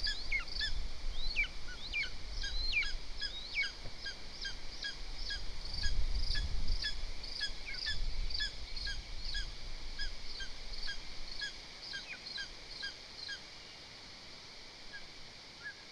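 A bird calling over and over, short pitched notes about twice a second, with several quick falling whistles in the first four seconds. The calls grow fainter over the last few seconds. A low rumble sounds on the microphone around six seconds in.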